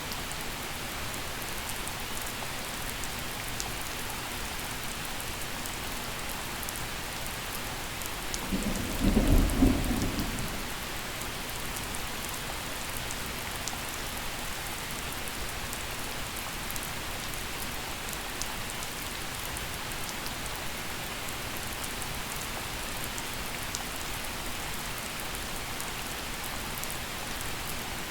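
Steady gentle rain falling, with a single short low rumble of thunder about a third of the way in that swells and fades within a couple of seconds.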